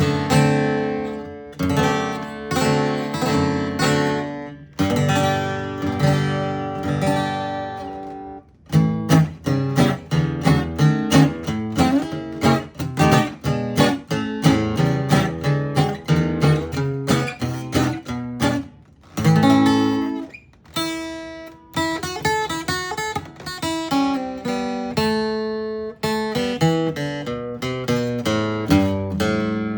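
A 1947–48 Gibson J-50 flat-top acoustic guitar strung with Martin Retro 13s being played: slow strummed chords for about the first eight seconds, then a quicker rhythmic strumming passage, with picked single-note runs about two-thirds of the way through before the chords return.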